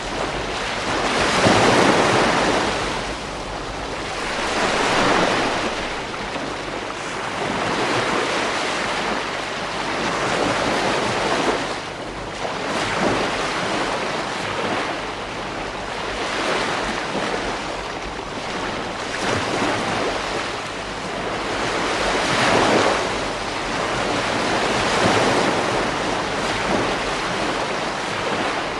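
Ocean waves breaking on a beach, one swell of surf after another every few seconds, with a steady wash of noise between them.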